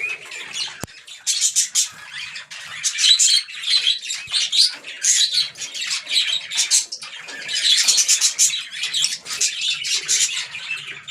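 A group of small pet birds chirping and squawking, many short high calls overlapping without a break. A single sharp click sounds about a second in.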